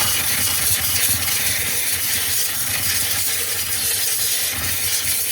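Handheld steamer jetting steam onto leftover ice in a freezer: a steady hiss with a low hum beneath it.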